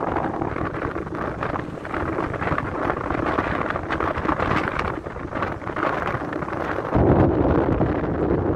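Strong wind buffeting the microphone in gusts. About seven seconds in it turns abruptly louder and deeper.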